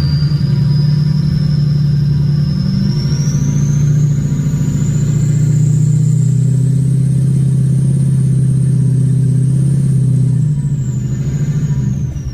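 Ford 6.0 Powerstroke turbo-diesel pickup engine pulling hard under load through deep snow, a steady loud drone with a high turbo whistle that rises slowly and then falls away near the end as the throttle eases.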